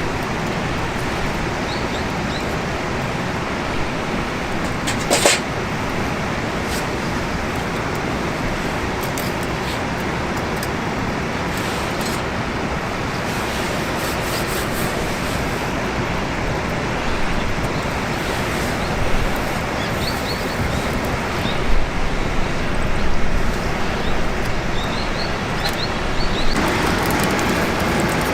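Wood campfire burning, giving a few sharp pops and crackles over a steady rushing noise.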